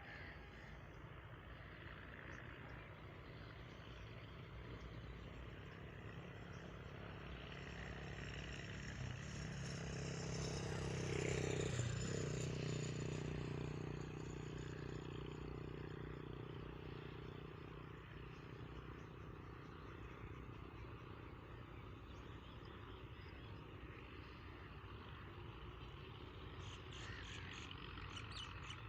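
A vehicle passing at a distance: its rumble grows slowly to a peak about twelve seconds in, then fades away. Birds chirp near the end.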